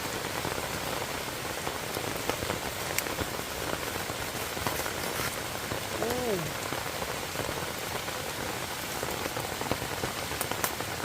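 Steady heavy rain falling on forest foliage, with many close raindrops striking at random.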